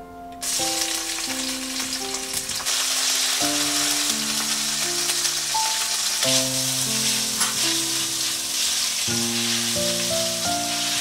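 Food sizzling as it fries in a pan, starting suddenly about half a second in, over soft piano background music.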